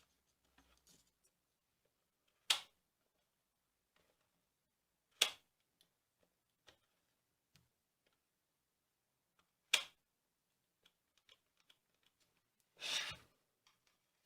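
Three separate sharp clicks, several seconds apart, then a brief scraping rustle near the end: hard parts and tools being handled during work on a Moulinex chopper.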